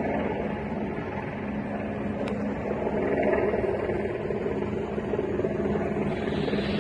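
Steady low drone of an idling engine with an even hum, unchanging throughout.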